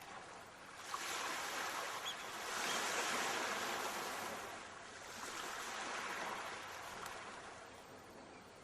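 Sea waves washing onto the shore as a steady hiss of surf. It swells twice: the louder surge builds about a second in and peaks around three seconds, a softer one follows around six seconds, then it eases off.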